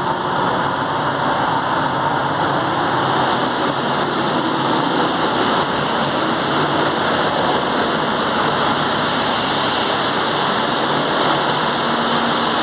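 Steady loud roar of a ship's engine room with its machinery running, an even noise that does not change.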